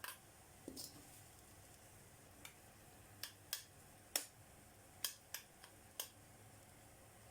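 Faint, irregular light clicks and taps, about ten over seven seconds, with the sharpest one a little past the middle, over a low steady hiss.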